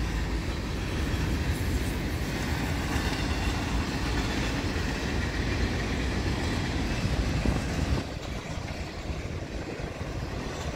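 Freight train cars rolling past: a steady noise of steel wheels on the rails, easing a little about eight seconds in.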